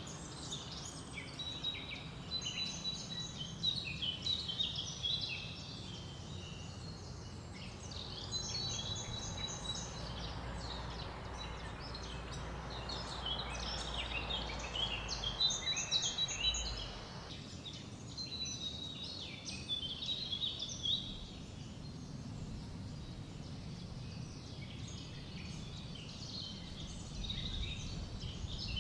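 Many songbirds chirping and calling at once in a continuous dawn-chorus-like mix, over a steady low rush of wind.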